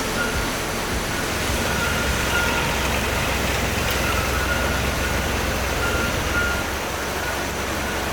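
A motor vehicle running steadily, a low rumble under a wash of noise, with short faint high tones repeating over it.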